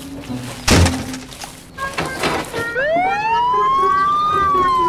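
A heavy thud about a second in, then a siren-like wail that rises in pitch over a second and a half and then slowly falls.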